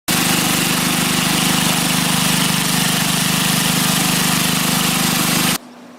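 Honda four-stroke engine of a Westermann WR870 moss brush running steadily under a wide hiss, then cutting off abruptly about five and a half seconds in.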